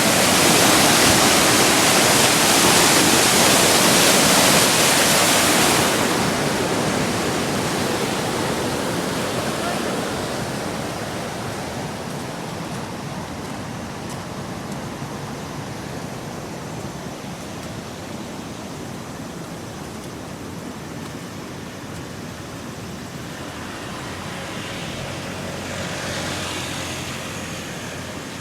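Steady rushing of a flood-swollen river in spate after a typhoon. Loud for the first six seconds, then dropping off and fading gradually, with a slight swell near the end.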